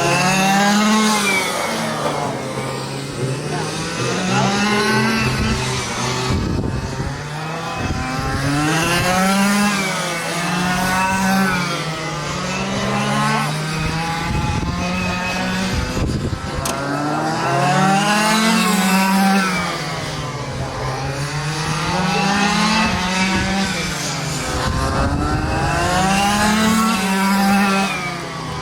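Quarter-scale RC race trucks running laps, their small engines rising in pitch and then dropping back again in a repeating cycle about every eight seconds, as they accelerate and lift off around the track.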